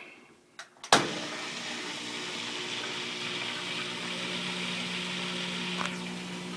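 Kenmore front-load washer's drain pump switching on about a second in and running with a steady hum and a rush of water. There is no vibration buzz: a steel bracket now presses the pump down onto its rubber mount.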